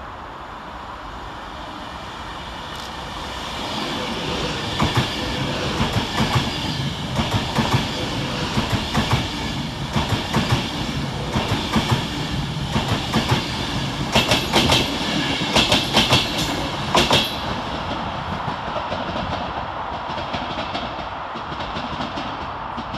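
Class 390 Pendolino electric train running through the station at speed, its noise building as it nears. As it passes, its wheels give a fast run of sharp clicks over the track for about twelve seconds, then the sound fades away.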